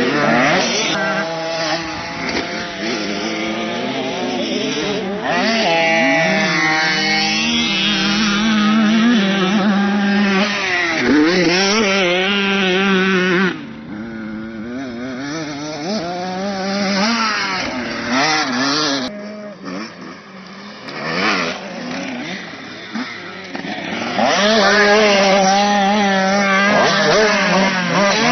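Motocross bike engines revving up and down, more than one at once, the pitch rising and falling with the throttle. The sound drops back twice in the middle and comes back loud near the end.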